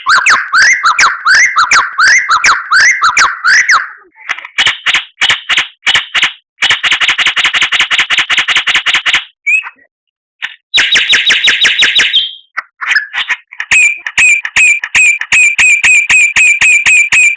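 White-rumped shama singing a string of varied phrases: repeated slurred whistles, fast clicking trills and buzzy rattles with short pauses between them, ending in a long run of sharp ticks at about four a second.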